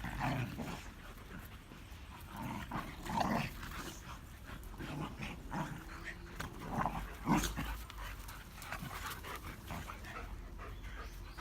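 Dogs play-fighting, with growly 'gau-gau' play noises coming in short, irregular outbursts and the odd louder one.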